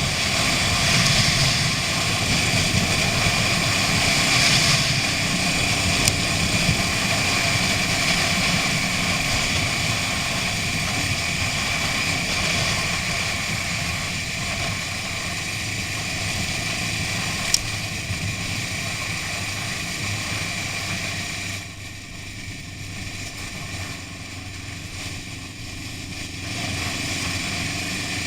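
Honda CB 500 parallel-twin engine running steadily under way, heard on board with the rush of the ride. It drops a little quieter for a few seconds near the end, with one sharp click shortly before.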